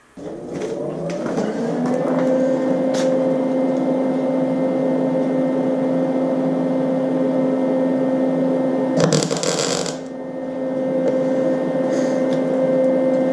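An electric cutting tool's motor starts and spins up with a rising whine over about two seconds, then runs at a steady pitch while a sheet-metal patch piece is cut out. There is a brief harsh burst and a short dip in speed near the end.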